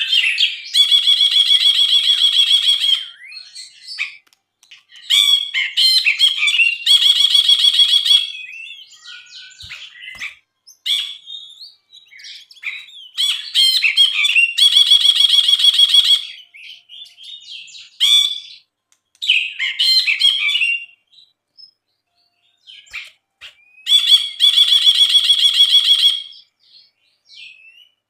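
Brinji (bulbul) singing: four loud, rapid, buzzing trills of about two seconds each, spaced several seconds apart, with short chirps and chatter between them.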